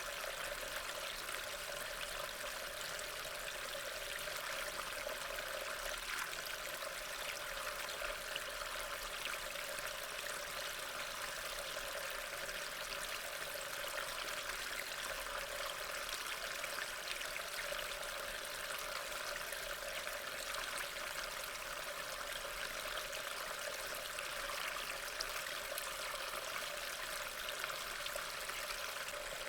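Steady rain, an even hiss of falling drops without pause.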